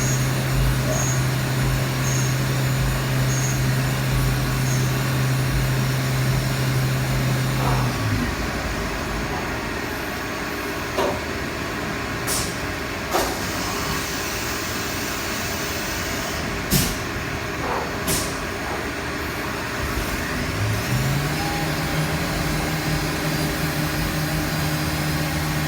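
Fadal VMC4020 CNC mill running with a steady spindle hum and coolant wash; about a third of the way in the spindle stops, and several clunks and short sharp air blasts follow, as in a pneumatic tool change. Near the end the spindle starts up again, its hum rising slightly in pitch as it comes up to speed.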